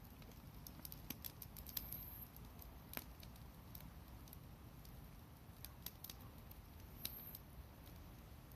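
Faint wood fire crackling, with irregular sharp pops and snaps, a few louder ones about a second, two and three seconds in and near seven seconds, over a low steady hum.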